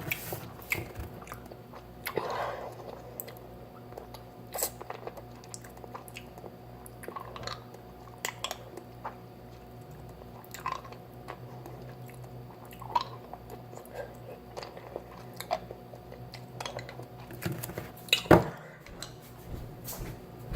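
Mouth noises of someone sucking and chewing a sour hard candy: scattered short wet clicks, smacks and crunches, with a louder one about 18 seconds in, over a steady low hum.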